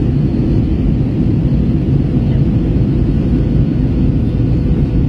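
Airbus A321 cabin noise in flight: a steady low rumble of the jet engines and airflow, with a faint steady hum above it.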